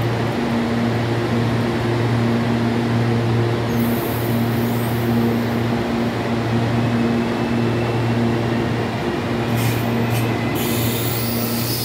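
Electric commuter train at a platform with a steady hum from its onboard equipment, breaking off now and then. A short hiss comes about ten seconds in, and as the train pulls away near the end a faint rising whine starts.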